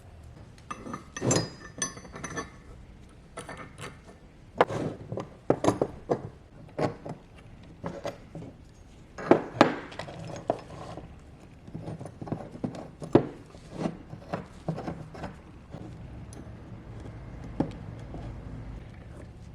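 Metal parts and hand tools being handled on a workbench: irregular clinks and knocks, some ringing briefly, with quieter stretches between them.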